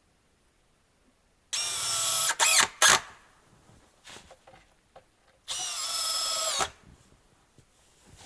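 Electric drill running in short bursts: a whining run of about a second with its pitch briefly dipping under load, two quick blips, then a second run of about a second a few seconds later.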